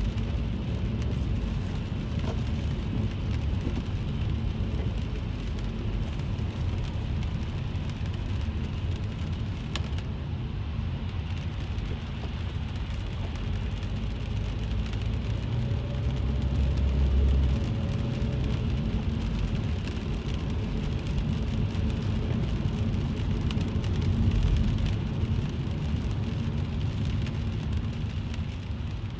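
Rain falling on a car's roof and windscreen, heard from inside the cabin as many small drop ticks over the steady low rumble of the car and road. The rumble swells briefly a little past halfway and again near the end.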